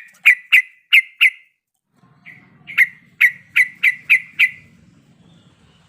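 Yellow-vented bulbul (trucuk) giving runs of sharp call notes, about four a second, in two bursts with a short pause between.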